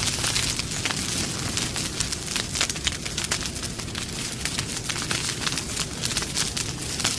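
Wood campfire crackling: frequent sharp snaps and pops, several a second, over a steady low rush of burning.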